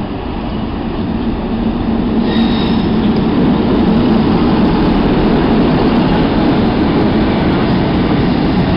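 Locomotive-hauled Royal Mail train passing close by at speed: a steady low hum and the rumble of wheels on rails, growing louder for the first few seconds as the locomotives draw level, then holding. A brief high squeal sounds a little over two seconds in.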